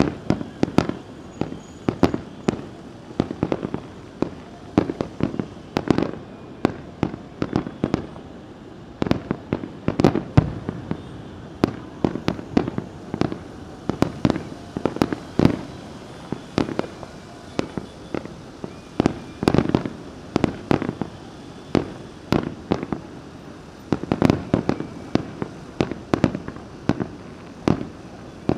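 Fireworks display: aerial shells bursting one after another in a dense, irregular barrage of bangs, several a second, each with a short echoing tail.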